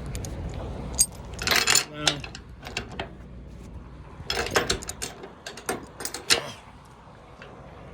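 Steel tie-down chain clinking and rattling against metal as it is handled to secure a flatbed load: a series of irregular metallic clinks and clanks, busiest a little past the middle.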